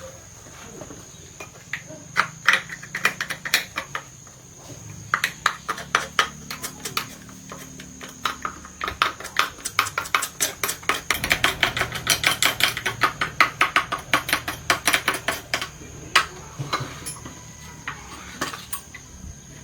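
Light metallic clicks and taps from hand work on small chainsaw parts. They come in irregular clusters, with a fast, even run of taps in the middle.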